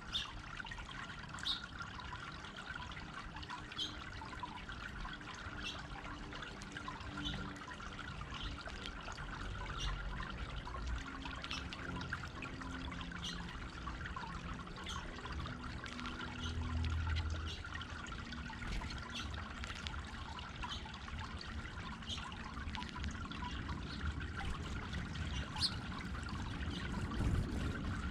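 Water trickling and pouring steadily over a stone boulder fountain, with short sharp ticks scattered throughout and a brief low rumble about two-thirds of the way in.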